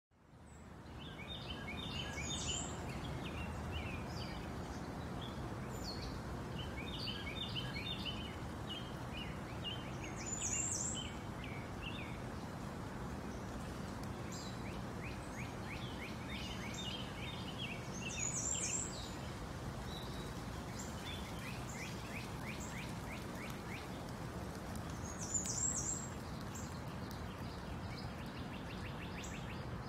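Songbirds chirping and singing in quick clusters of notes, with a louder, higher phrase about every eight seconds, over a steady low outdoor rumble.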